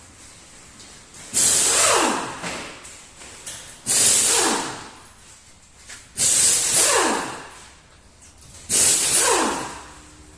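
Four loud hissing bursts about two and a half seconds apart, each with a whistle that falls steeply in pitch as it dies away.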